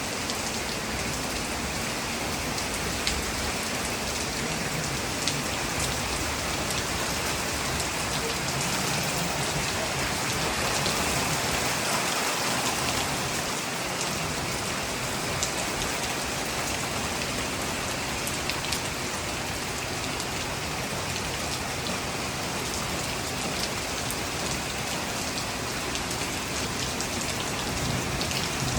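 Steady heavy rain from a thunderstorm falling on the ground, an even hiss with scattered sharper drop ticks.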